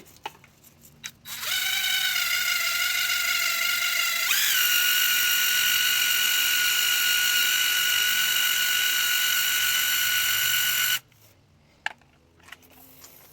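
Electric drill spinning a nylon scrub brush against a motorcycle chain, a steady motor whine. It starts about a second and a half in, jumps higher in pitch as the drill speeds up a few seconds later, runs steady, then cuts off suddenly near the end.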